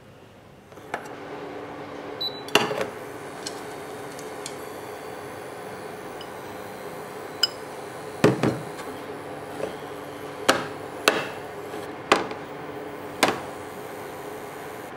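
Kitchen utensils knocking against cookware or a hard surface: about eight sharp, separate knocks at irregular intervals. A steady hum sets in about a second in and runs beneath them.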